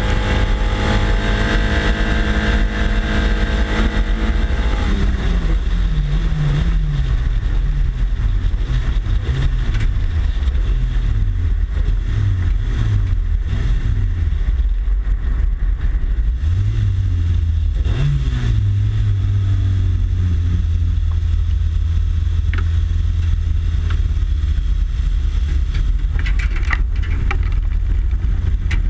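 Race car's engine running at high revs, then the revs dropping in a series of falling and rising sweeps as the car slows down. It settles into a steady low running note for the last stretch. Heavy wind rumble on the bumper-mounted microphone lies under it throughout.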